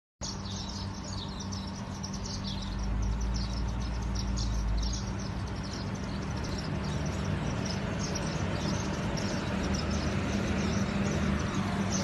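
Many small birds chirping over a steady hum and a background noise haze, with a low rumble about three to five seconds in.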